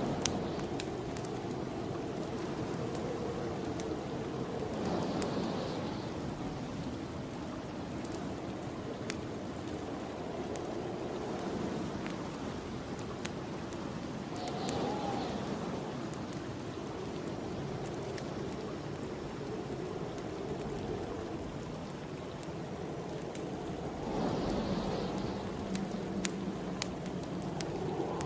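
Snowstorm wind blowing steadily, swelling in gusts about every ten seconds, with the scattered crackle and pops of a wood fire burning in a fireplace.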